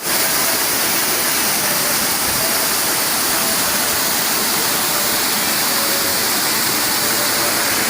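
Waterfall pouring down, a loud, steady rush of falling water.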